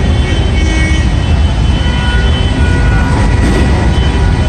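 Volkswagen Beetles in a parade driving past, a loud, steady low rumble with faint high tones over it.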